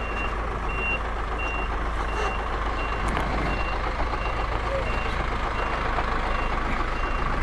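Vehicle reversing alarm beeping steadily, one high-pitched beep roughly every two-thirds of a second, over a low steady engine rumble as a truck backs up.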